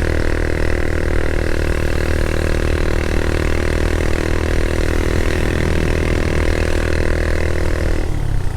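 Motorcycle engine running at a steady speed while riding, its note unchanging until it breaks off near the end.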